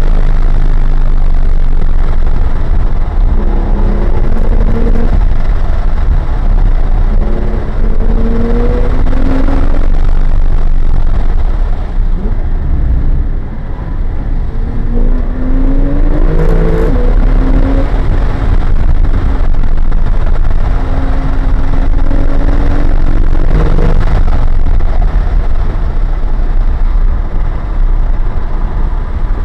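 Porsche 911 Turbo's turbocharged flat-six being driven hard on track, heard from inside the cabin. Its pitch climbs and then drops back several times as it pulls through the gears and shifts, over a constant low rumble of road and wind noise.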